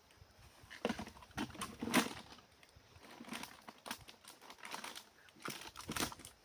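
Irregular clicks and crackling rustles, some louder knocks about a second, two seconds and six seconds in.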